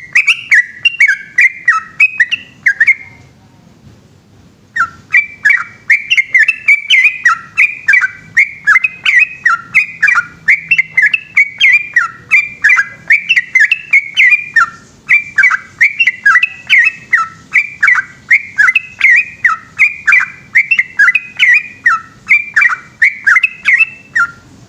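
Yellow-vented bulbul singing a long, rapid run of short bubbly whistled notes. It breaks off about three seconds in and resumes about two seconds later, carrying on without pause.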